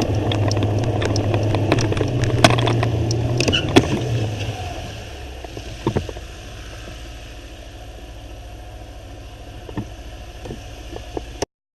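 Vehicle engine and road noise: a strong low hum with scattered knocks and clicks, easing off about four and a half seconds in to quieter running with a few clicks. It cuts off abruptly just before the end.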